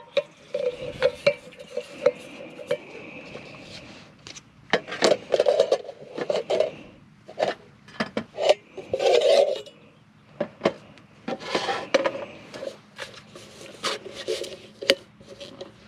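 Camp cookware and metal utensils clinking, knocking and scraping, with many short sharp clicks and a few longer rubbing scrapes. A steady hum comes and goes underneath.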